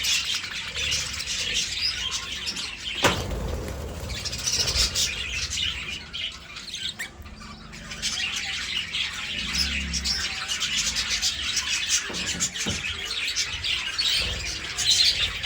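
Budgerigars chattering and chirping continuously in quick, high warbles, with a quieter lull about halfway through and a sharp click about three seconds in.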